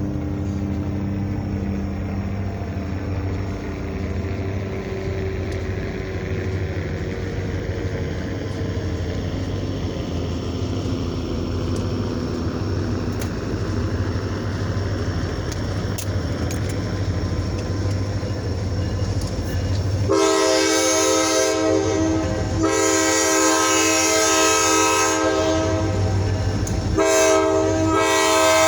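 EMD SD40-2 diesel locomotives running past with a steady low engine rumble. About twenty seconds in, the locomotive's air horn starts blowing in long blasts with short breaks between them.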